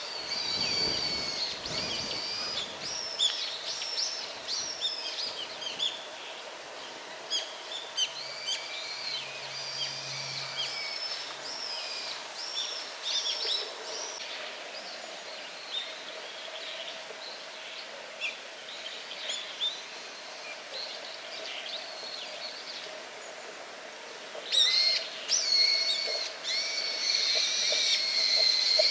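Small birds chirping and twittering in quick, overlapping calls over a faint steady hum, busiest at the start and again in the last few seconds.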